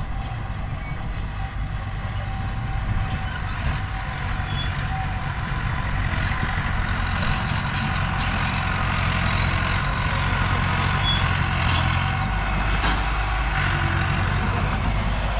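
Heavy diesel engines of earthmoving machinery running under load, growing louder about six seconds in and holding there.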